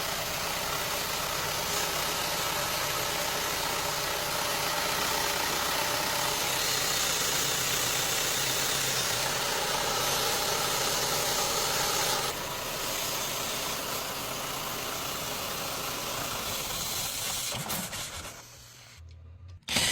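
Car engine idling under a steady hiss while it is checked for a vacuum leak. The hiss is louder for several seconds in the middle and drops about twelve seconds in, and the sound fades away near the end.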